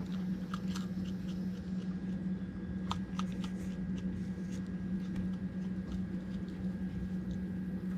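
Raccoon eating, with faint scattered crunches and clicks of chewing over a steady low hum.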